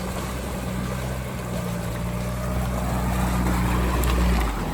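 Off-road vehicle engine running steadily at low revs, rising a little near the end and then easing off.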